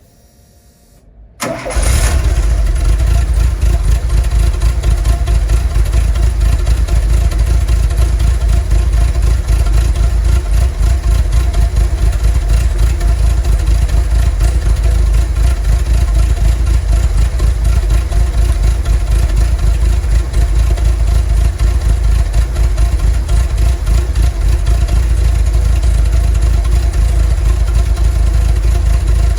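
VW T3 bus's 2.1-litre WBX water-cooled flat-four engine starting about a second and a half in, then running steadily at idle with a deep rumble.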